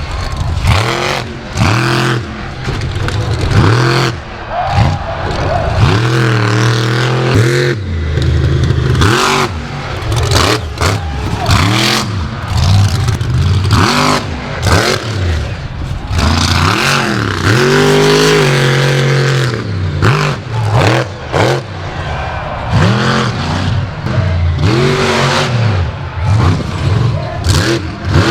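Monster truck engine revving hard again and again, its pitch climbing and dropping in repeated surges, with sharp knocks and bangs in between.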